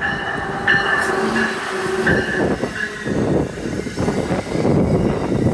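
Amtrak Northeast Regional train coming past the platform, with high steady squealing tones from wheels and brakes over a rumble of the train that grows louder toward the end.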